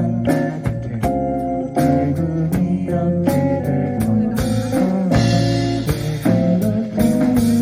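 A live rock band playing a song: electric guitar and bass guitar over a drum kit keeping a steady beat.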